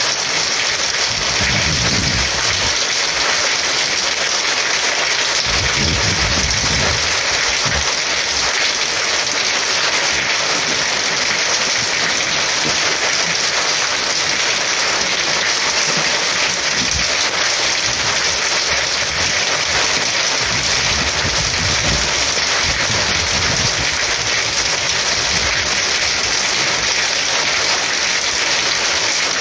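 Heavy rain pouring down in a steady dense hiss, with a few low rumbles swelling in and out underneath.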